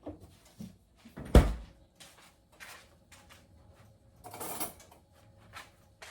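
Kitchen handling sounds: a few knocks, the loudest a heavy thump about a second and a half in, then a short scrape or rustle near the middle.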